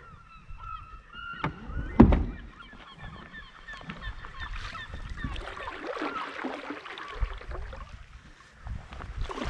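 A bird calling over and over in short, pitched calls during the first couple of seconds, with one sharp knock about two seconds in, then water and kayak paddling sounds.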